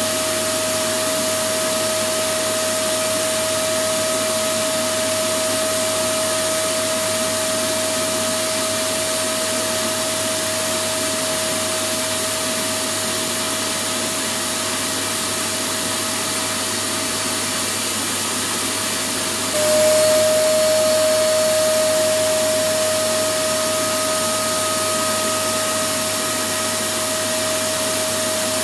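Electric vacuum cleaner motor running steadily: a dense rushing noise with a constant high whine. About two-thirds of the way through, the whine drops slightly in pitch and the sound briefly gets louder, then settles back to its steady run.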